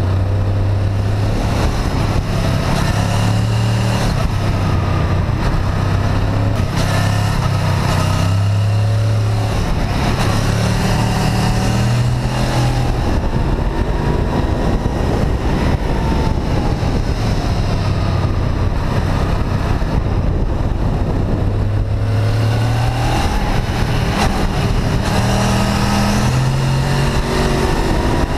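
Honda VFR800 VTEC's V4 engine running under way, its pitch stepping up and down as the revs change, over steady wind rush.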